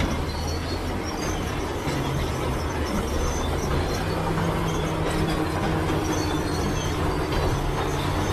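Crawler bulldozer at work: its diesel engine runs steadily under the clank of the steel tracks, with short high squeaks from the track links and rollers.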